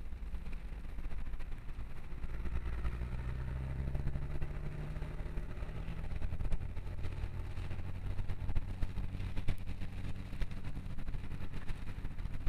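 Vehicle engine running, heard from inside the cab: it pulls harder about two seconds in, then settles to a lower, steadier note about six seconds in. Scattered light clicks and knocks come over the second half.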